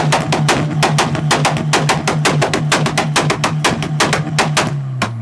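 A car engine held on its rev limiter, with rapid exhaust bangs at about nine a second. Near the end the revs drop and the note falls.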